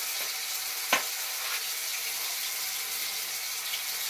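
Chicken pieces sizzling steadily in hot oil in a frying pan, with a single sharp tap about a second in.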